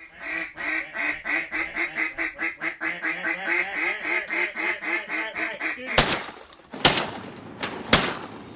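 A mallard duck call blown in a fast, even run of about two dozen quacks over about six seconds, then three shotgun shots about a second apart.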